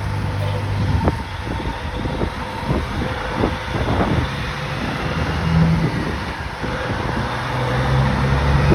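Loud motor vehicle engine running and revving unevenly, with a crackle over it; a deeper, steadier engine drone builds near the end.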